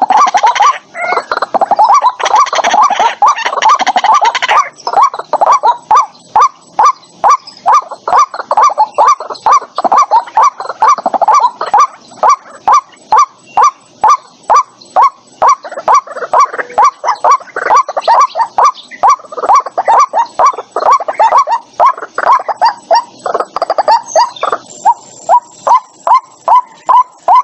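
White-breasted waterhen calling over and over in short, regular notes, about two to three a second. In the first few seconds the calls are denser and overlap, and again briefly near the end. It is a clean lure recording of the bird's call, meant for a trap speaker.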